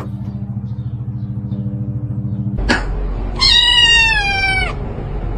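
A domestic cat gives one long meow that falls slowly in pitch, about three and a half seconds in. Before it, a steady low pulsing hum cuts off at a sharp click.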